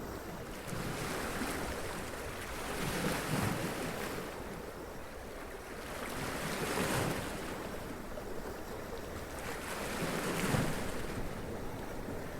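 Sea waves washing up onto rocks and splashing. The surf swells and falls back every few seconds, a little more than a second apart at first, then about four seconds apart.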